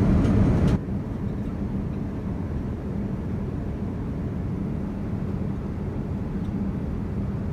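Steady cabin noise of a Boeing 787-9 airliner in cruise: a low rush of airflow and engine rumble with a faint steady hum. About a second in it drops abruptly to a noticeably quieter level and stays there.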